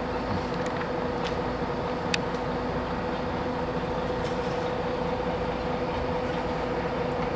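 Steady droning hum at a constant pitch over an even background noise, with a few faint ticks.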